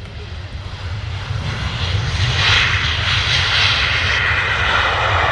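Airplane engine noise growing louder over the first two seconds or so as the aircraft approaches, then holding loud and steady: a low rumble under a broad rushing roar.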